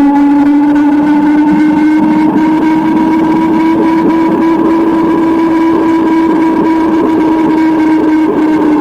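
Motorcycle engine running at a steady, fairly high pitch while riding, rising very slightly, with rushing noise underneath.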